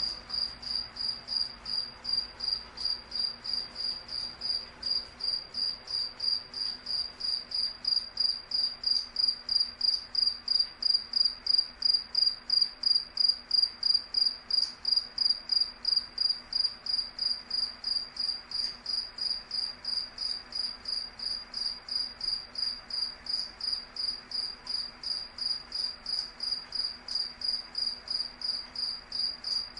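A cricket chirping steadily, a high-pitched chirp repeated about three times a second in an even rhythm.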